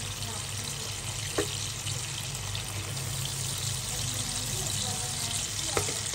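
Onions and tomatoes sizzling steadily in oil in a wok while a wooden spoon stirs them, with two sharp knocks of the spoon against the pan, one about a second in and one near the end. A low hum runs underneath.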